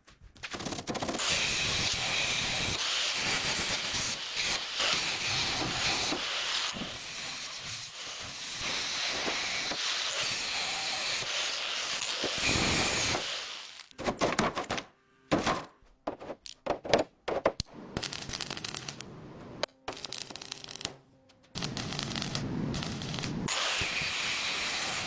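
A steady hiss for about thirteen seconds, then a string of separate sharp knocks with short quiet gaps, then the steady hiss again near the end.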